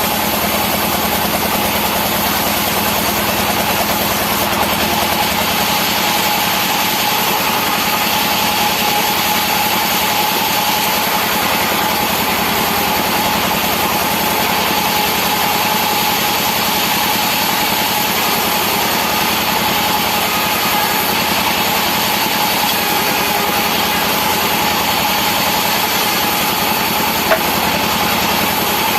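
Sawmill machinery running steadily, an even engine-driven drone with a constant whine over it, and a single small click near the end.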